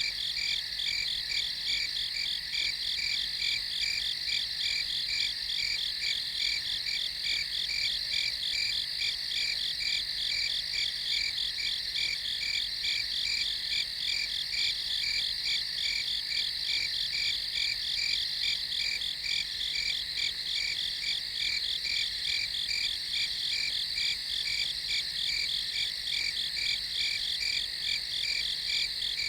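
A chorus of night crickets chirping in a steady, rapid, high-pitched pulsing that never lets up.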